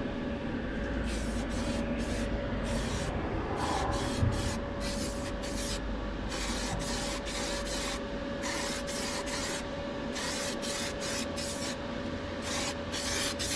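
Aerosol can of weld-through primer sprayed onto bare sheet metal in many short hissing bursts, to protect it from rust before welding. A steady hum runs underneath.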